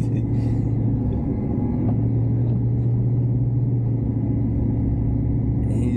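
Heavy-duty pickup truck heard from inside the cab: a steady low drone of engine and road noise.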